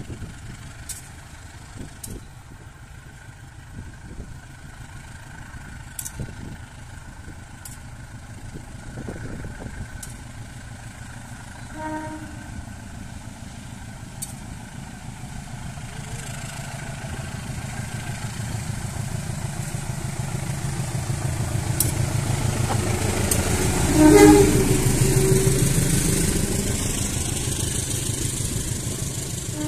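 Diesel locomotive of the Serayu passenger train getting under way and passing close by, its engine rumble building. It gives a short horn toot about twelve seconds in and a loud horn blast about twenty-four seconds in, then the coaches roll past on the rails.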